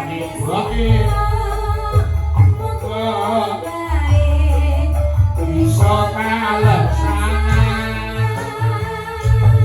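Live band music with a singer carrying the melody over a strong, steady bass line.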